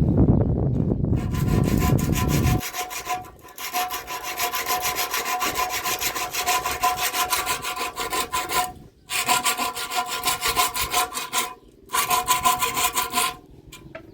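Fast, evenly repeated rasping strokes, like sawing, in four spells with short pauses between them. A low rumble sits under the first two and a half seconds.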